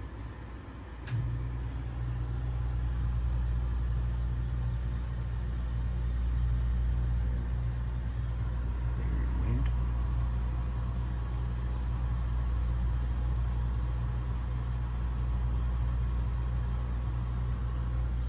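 Air-conditioning unit starting up: a click about a second in, then its compressor comes on with a sudden, loud, steady low hum that runs on.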